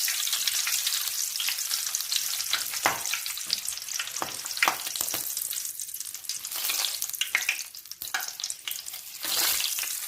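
Curry leaves and green chillies frying in hot oil in a kadai: a steady high sizzle with scattered crackles and pops, swelling louder near the end.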